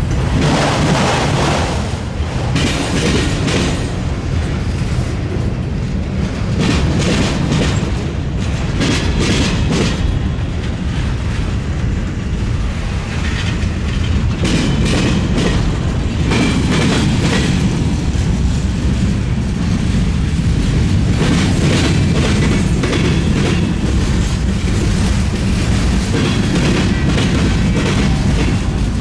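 Freight train rolling past, its wheels clattering in repeated bunches as the cars' trucks cross the railroad diamond, over a steady low rumble.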